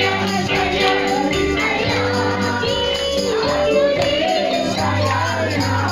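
Church worship song: a group of voices singing with tambourines shaken and struck in rhythm over a sustained bass accompaniment.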